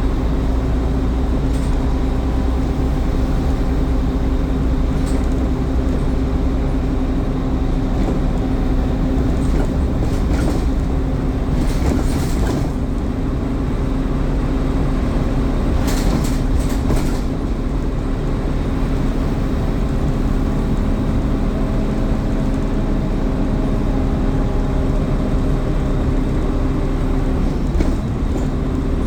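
Scania N230UD Omnicity double-decker bus heard from on board: its five-cylinder diesel engine and cooling fans run with a steady drone and whine. A few short hissing or scraping noises come through around the middle.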